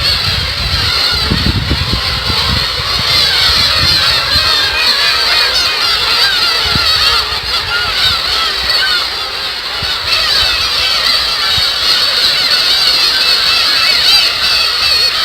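A large breeding colony of black-tailed gulls calling all at once: a loud, unbroken chorus of many overlapping, rising-and-falling cries.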